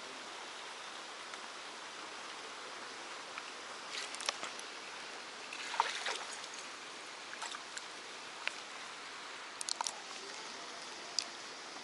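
Steady running-water hiss, like a stream or inflow at a pond. Scattered small clicks and handling knocks come on top of it every second or two, with a short cluster of them about six seconds in.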